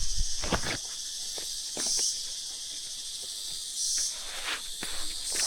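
A steady, high-pitched insect chorus, like cicadas or crickets, swelling about every two seconds, with a few short knocks in the first second.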